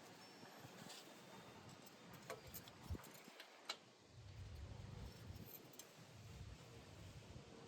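Near silence, with three faint clicks a little over two to nearly four seconds in, then a faint low rumble.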